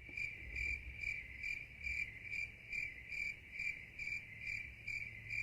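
Cricket chirping in a steady, even rhythm of about two chirps a second, over a faint low hum.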